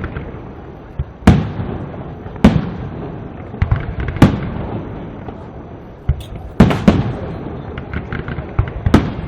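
Aerial fireworks display: about six loud shell bursts a second or two apart, two of them close together in the middle, with smaller cracks between. Each bang trails off in a rolling echo.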